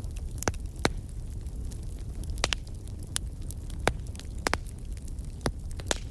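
Wood bonfire crackling: sharp, irregular pops and snaps over a low steady rumble.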